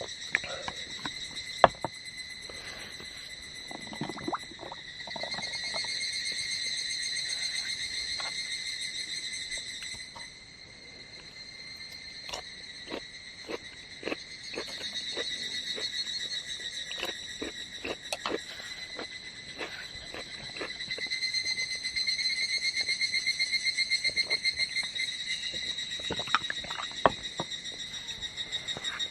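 Higurashi (evening cicadas) singing in a chorus of high, pulsing calls that swell and fade in long phrases, three times. Scattered light clicks and knocks sound throughout.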